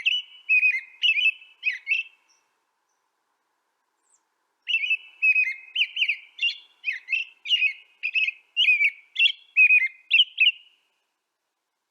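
A songbird singing: a short phrase of chirps, a pause of about two seconds, then a longer run of about a dozen quick chirping notes, about two a second.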